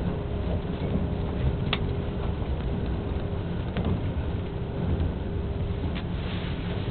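Cabin running noise of a JNR 485-series electric train under way: a steady low rumble with a faint constant hum, and a few sharp clicks about two seconds apart.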